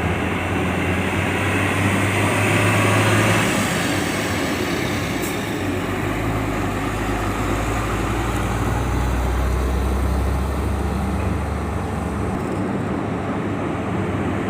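Vehicle engines running as cars and trucks drive off a ferry: a steady low drone that swells louder about two to three seconds in.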